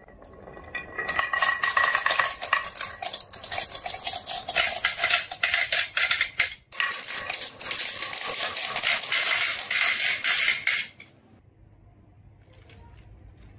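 Many marbles clattering and clicking against each other and the track as they run down a marble run, starting about a second in, breaking off briefly around the middle, then stopping abruptly near the end.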